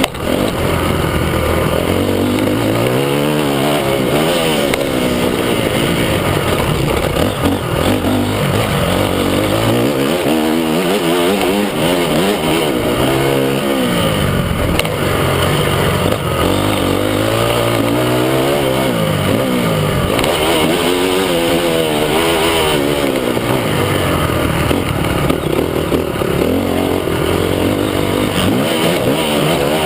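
Motocross bikes running on a dirt track, engines repeatedly revving up and falling back as the riders accelerate, shift and roll off, with more than one bike heard at once.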